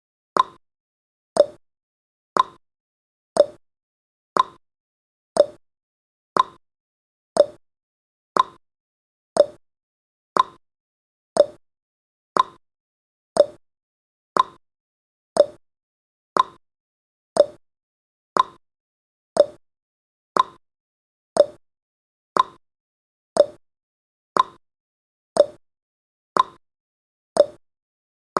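Countdown timer tick sound effect: a short, sharp plopping tick repeating evenly once a second.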